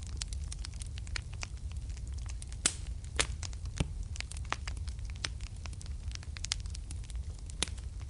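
Wood fire burning in a fireplace: a steady low rumble of flames with frequent sharp crackles and pops, a few louder snaps about three seconds in and again near the end.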